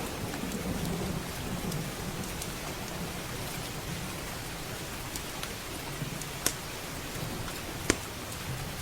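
Steady heavy rain with a low rumble of distant thunder in the first couple of seconds. Sharp pops of a crackling wood fire stand out above the rain, two louder ones near the end.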